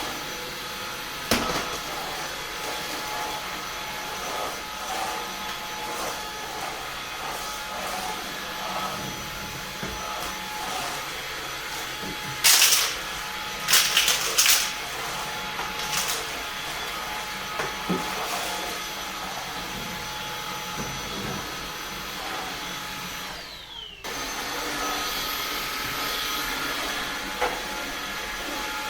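Eufy HomeVac S11 cordless stick vacuum running steadily with a motor whine, with a few loud sharp crackles about halfway through. Near the end its pitch drops and it dips briefly, then runs on a little louder.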